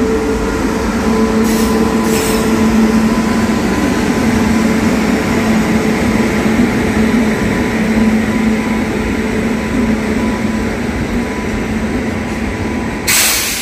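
Electric-hauled Indian Railways express train passing slowly along a station platform: the wheels on the rails make a steady rumble under a steady low hum. A brief hiss comes near the end.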